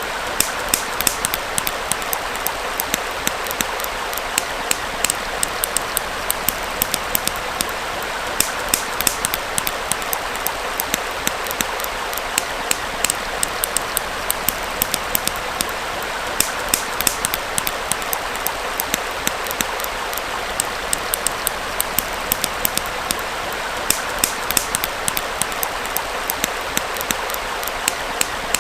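Campfire crackling with frequent, irregular sharp pops over the steady rush of a small flowing stream.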